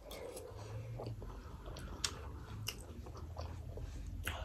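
Mouths biting and chewing mutton momo dumplings, with scattered sharp mouth clicks.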